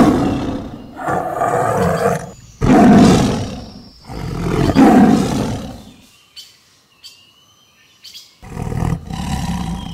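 A tiger roaring in a series of loud calls, about one every two seconds, each lasting a second or so. Faint bird chirps sound in a quiet gap about six to seven and a half seconds in, before one more roar near the end.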